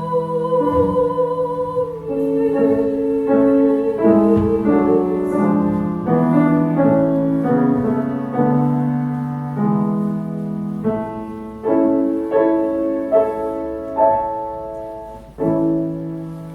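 A female singer holds a note with vibrato over grand piano accompaniment for about the first five seconds. The piano then plays on alone in a closing passage of chords that fades away near the end.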